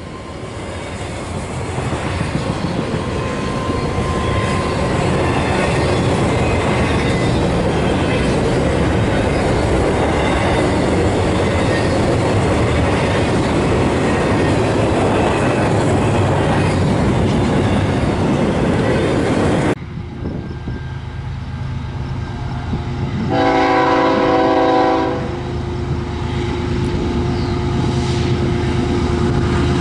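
A train passing close, with loud, steady rumbling of wheels on rail that builds over the first couple of seconds and then cuts off abruptly about twenty seconds in. A few seconds later a locomotive's multi-chime horn blows a chord for about two seconds, then holds a fainter single note, then blows the chord again near the end.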